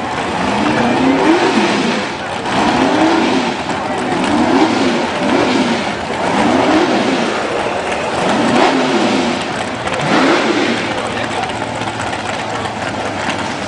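Drag race car engine revved again and again at the starting line, the pitch climbing and dropping about once a second.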